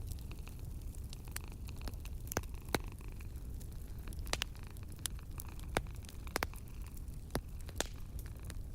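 Wood fire crackling in a fireplace: irregular sharp pops and snaps, a handful of them louder, over a steady low rumble.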